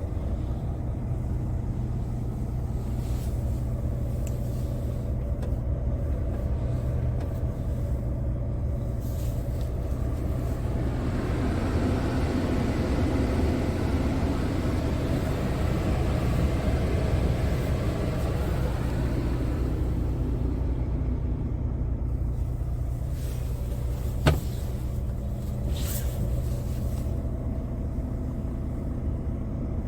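Scania R460 truck's 13-litre inline-six diesel engine running steadily, with a swell of broader noise in the middle and a single sharp click about 24 seconds in.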